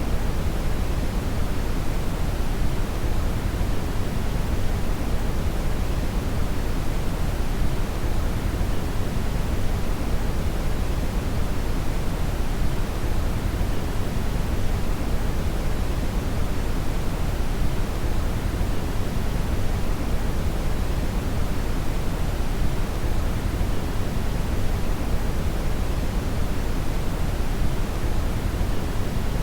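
Steady electronically generated brown (red) noise: an even, deep rushing hiss with most of its energy in the low end, unchanging throughout.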